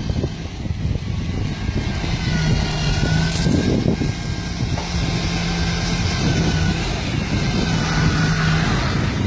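Truck engine running with a low rumble. A steady low hum sits over it for several seconds and returns briefly near the end, with a faint higher whine.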